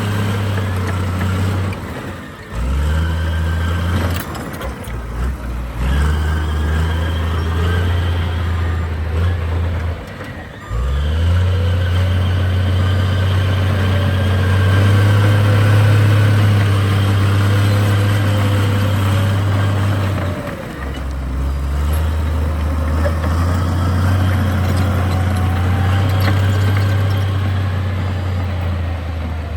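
Heavy diesel engine of earthmoving machinery running steadily. The drone drops off briefly and comes back several times: about 2, 5, 10 and 20 seconds in.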